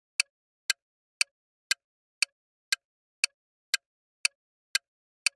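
Countdown-timer tick sound effect, sharp clean ticks at about two a second with silence between them, marking the time to answer a quiz question.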